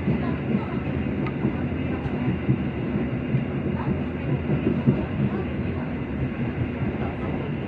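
Steady rumble of a passenger train running along the line, heard from inside the carriage.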